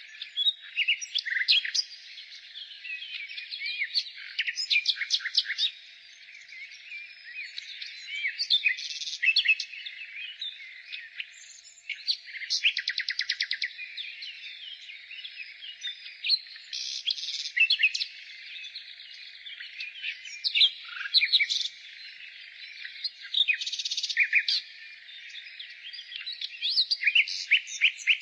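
Nightingale singing in varied phrases about a second long, separated by short pauses, some of them fast rattling trills, over a continuous background of other birds twittering.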